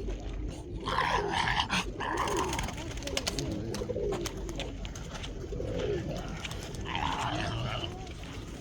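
Domestic pigeons cooing, a series of low wavering calls, with two louder noisy bursts about a second in and near the end.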